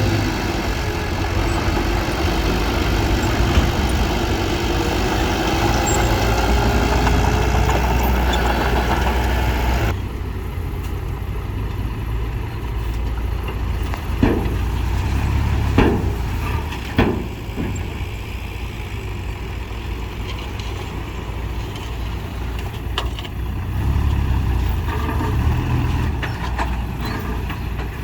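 Diesel engines of heavy earthmoving machinery running steadily. The sound changes abruptly about ten seconds in, and a few sharp metallic clanks come in the second half.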